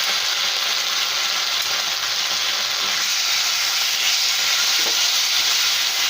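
Onions and diced capsicum frying in a pan with a steady sizzle while being stirred.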